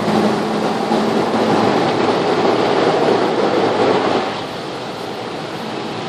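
An automatic car wash working over the car, heard from inside the cabin: a loud, steady rush of water and machinery noise that drops to a quieter level about four seconds in.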